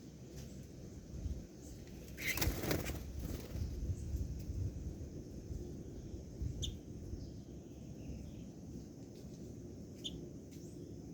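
Birds giving a few short, high chirps, single calls spaced several seconds apart. A brief rustling burst about two seconds in is the loudest sound, and a steady low rumble runs underneath.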